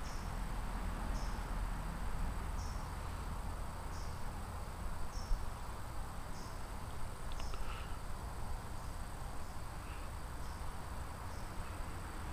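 An insect chirping in a regular rhythm, a short high chirp a little less than once a second, over a low steady background rumble.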